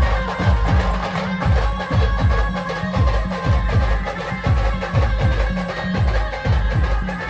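Brass band playing a sambal rhythm: a steady pattern of drum strokes with deep falling-pitch bass beats, about two a second, under held melody notes.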